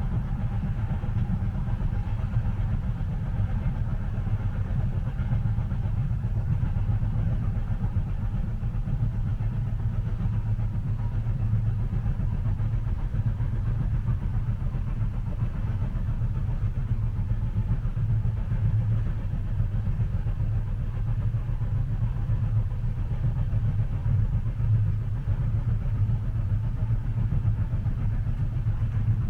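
Steady low rumble inside a moving train carriage, with a faint hiss above it.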